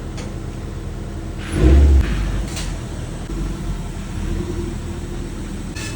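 Subaru boxer engine in a 1991 VW Transporter Doka running steadily at idle. A heavy thump comes about one and a half seconds in, and a few light clicks come and go.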